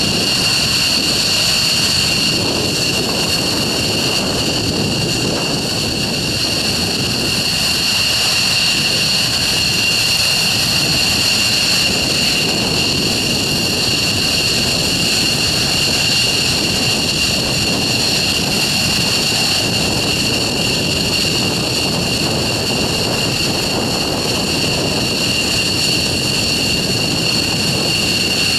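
F-15 Eagle fighters' F100 turbofan engines running steadily on the ground, a loud, even roar with a piercing high-pitched turbine whine over it.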